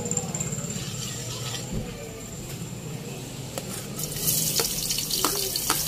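Raw potato strips tipped from a plate into hot oil in a wok about four seconds in, setting off a sudden sizzle, with a few sharp clicks as pieces and the plate tap the pan. Before that, only a low steady hum under the heating oil.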